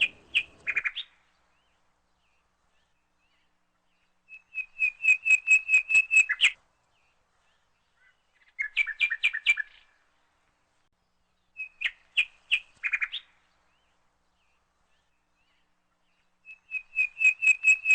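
A songbird singing: five phrases of rapid, evenly repeated high whistled notes, each lasting about two seconds and often ending in a brief buzzy flourish, with short silent gaps between phrases.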